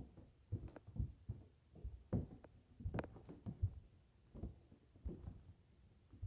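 Soft, irregular thumps and knocks, about one or two a second, of hands and feet landing on the floor while crab walking, with balloons being bumped along.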